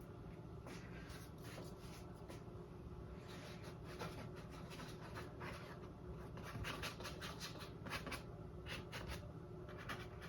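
Paintbrush brushing and dabbing acrylic paint, a run of faint, irregular short scratchy strokes that come thicker in the second half, over a low steady hum.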